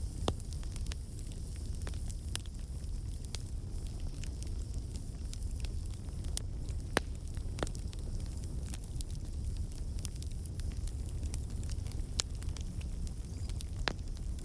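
Wood campfire burning: a steady low rumble of the flames with irregular sharp crackles and pops from the logs, a few louder snaps among them, the crackling caused by water and sap in the wood escaping as steam.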